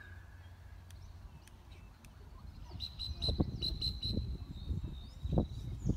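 A bird giving a quick run of about six high chirps, then a drawn-out high note, over irregular low rumbling from wind on the microphone.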